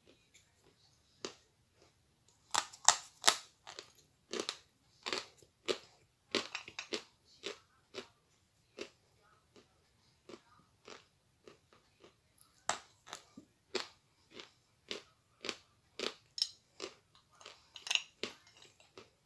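Close-up crunching and chewing of a dry, brittle piece of edible clay: sharp, crisp crunches in irregular clusters. The crunches are densest from about two and a half seconds in, and come again as a run near the end, with sparser chewing crunches in between.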